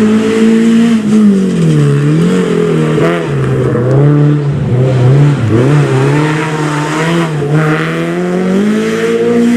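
Rally car engine running hard through a special stage, its pitch holding high, dropping twice as it lifts off and climbing again near the end as it accelerates.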